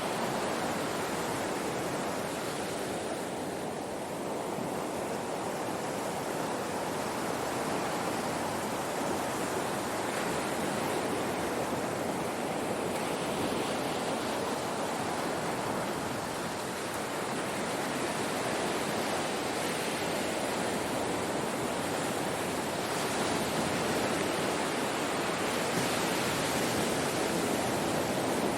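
Ocean waves washing on a shore: a continuous surf rush that swells and eases slowly, with no single distinct crash.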